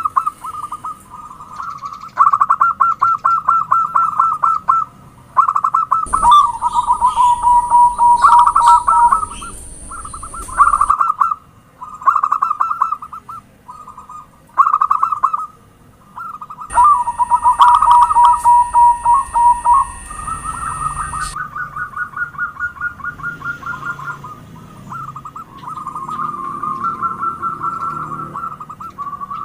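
Zebra doves (perkutut) cooing: repeated phrases of quick, staccato coo notes, one phrase after another with short pauses between.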